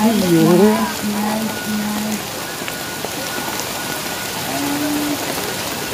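Heavy rain pouring down in a steady, even hiss, with a person's voice heard briefly in the first two seconds.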